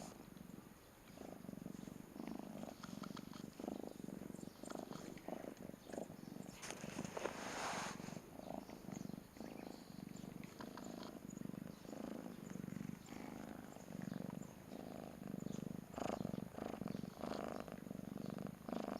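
Domestic cat purring steadily, each pulse lasting a little under a second with each breath, the sound of a contented cat being fussed over. A brief rustling noise about seven seconds in.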